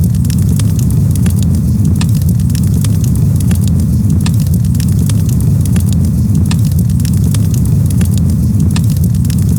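Campfire crackling: frequent sharp pops and snaps over a steady, loud low rumble.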